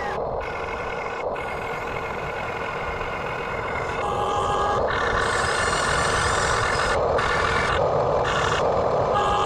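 Radio-controlled backhoe excavator running, a steady mechanical whine with a faint pitched tone, growing louder about four seconds in.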